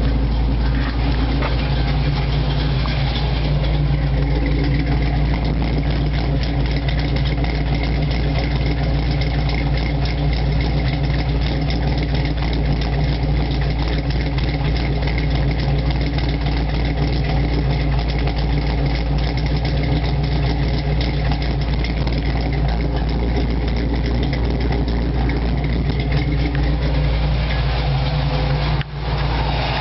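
Bored-over Chevy 350 V8 with a ProComp thumper cam and MSD Atomic EFI throttle-body fuel injection, idling steadily at operating temperature. The sound cuts out for an instant about a second before the end.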